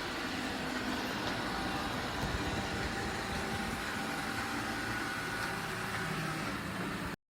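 Eufy RoboVac G30 robot vacuum running, a steady whir of its suction motor and brushes with a faint high hum, cutting off suddenly near the end.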